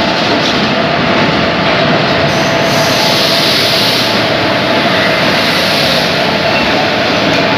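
Trains rolling through a railway station: a freight train of covered wagons and an electric locomotive hauling passenger coaches in along the platform. A loud, steady rumble with a steady hum beneath it.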